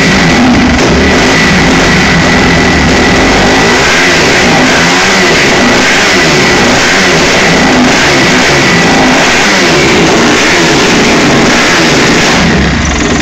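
Kawasaki KX250F's four-stroke single-cylinder dirt-bike engine being revved, the throttle blipped up and down over and over, very loud.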